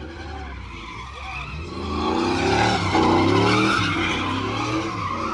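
Truck engine revving hard while its tires spin and squeal in a burnout, the noise building about two seconds in. Beer has been poured on the tires as lubricant.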